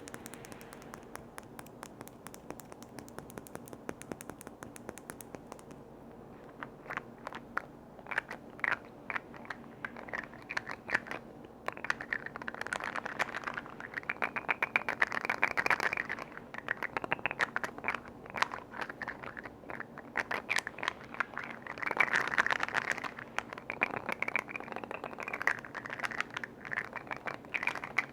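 Tapping and scratching on container lids: quick clicks, sparse at first and then denser, with longer stretches of rapid scratching about halfway through and again later.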